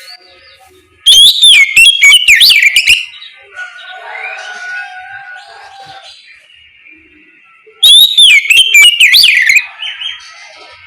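Oriental magpie-robin (kacer) singing its loud, full 'ngeplong' song: two bursts of rapid, swooping whistled notes, each about two seconds long. Fainter bird calls fill the gaps.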